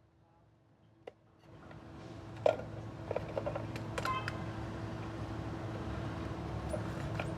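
A machine starts running about a second and a half in and settles to a steady hum. A sharp knock comes about a second later, followed by a few light clicks, like tools or parts being handled.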